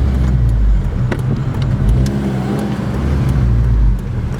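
Car engine and exhaust droning under way, pulling with shifting pitch, then easing off about four seconds in.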